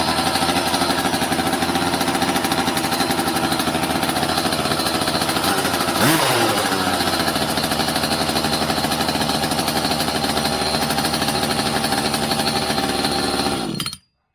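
Cordless drill turning the electric start kit to crank the Rovan Baja 5B's cold two-stroke engine, a steady rapid pulsing for about fourteen seconds that cuts off abruptly. The engine does not catch: the drill is on low speed, too slow to start it.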